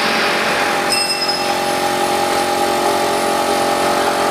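CNC router spindle and machine running steadily, a constant machine whine over a hiss of noise. A brief high-pitched whistle joins about a second in.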